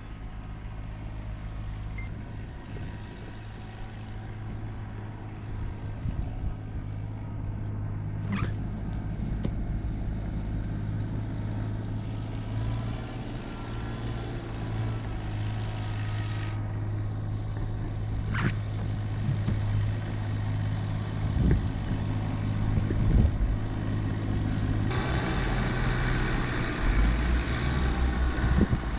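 A vehicle engine running steadily at idle, a low even hum, growing louder and noisier in the last few seconds.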